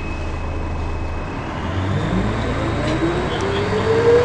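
Volvo B10BLE bus with a steady high-pitched whine that stops about a second and a half in, over a low engine hum; the engine note then rises steadily as the bus accelerates.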